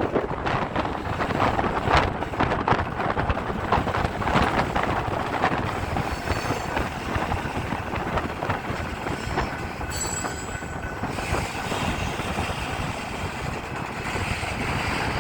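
Freight train cars rolling past, steel wheels clicking over the rail joints, with a brief high wheel squeal about ten seconds in.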